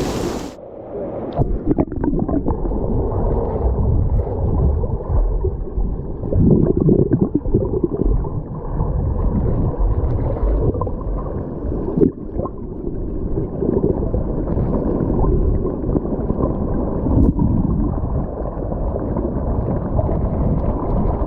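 Muffled underwater sound from a GoPro action camera dunked in a waterfall pool: a loud, low churning and gurgling of water, with the high sounds cut off and a few knocks. It sets in suddenly about half a second in as the camera goes under.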